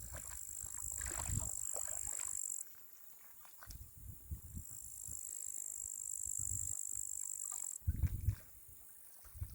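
Crickets trilling in a high, steady trill that stops abruptly about two and a half seconds in and resumes a couple of seconds later, stopping again near the end. Low thuds and rumbles come and go underneath.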